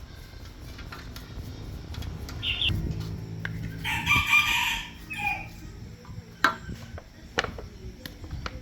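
A rooster crowing once, about halfway through, with two sharp knocks a second or two later.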